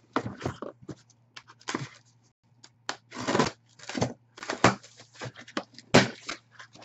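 Trading-card packaging being handled and torn open, with irregular tearing and rustling and scattered sharp clicks.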